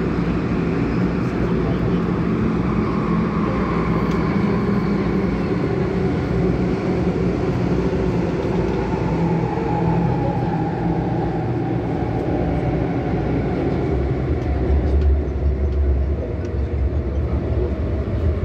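MTR Tung Chung Line CAF train running between stations: steady wheel and motor noise, with a deeper rumble setting in near the end.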